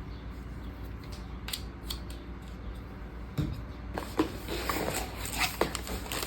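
Paper and plastic rustling and crinkling as planner sticker sheets and packaging are handled, with a few sharp clicks; the rustling grows busier about four seconds in.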